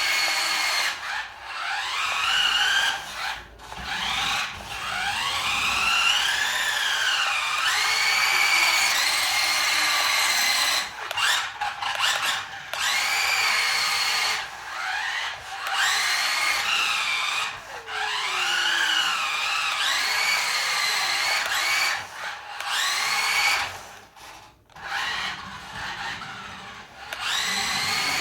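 Electric motors of a 9.6-volt Tyco Twin Turbo RC Indy car whining at high pitch, repeatedly revving up and dropping back as the throttle is worked, with short stops where it is let off.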